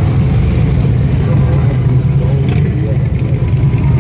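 Police motorcycle engines running steadily at low speed, with a short click about two and a half seconds in.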